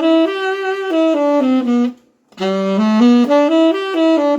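Saxophone playing a quick pentatonic scale run, stepping up and then back down. It stops about two seconds in, and after a short break the same up-and-down run starts again.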